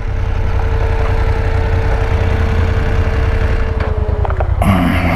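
BMW F 850 GS parallel-twin engine running at low revs as the motorcycle crawls along a dirt road and rolls to a stop, with a steady low rumble. A thin steady whine over it sags and fades about four seconds in.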